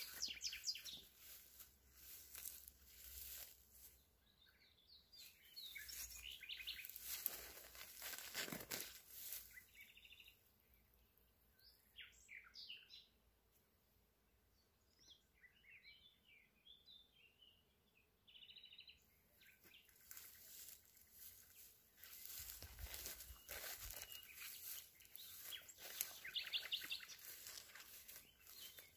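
Faint small birds chirping and singing in short phrases, clearest in the middle, with bursts of rustling, crackling noise near the start and toward the end.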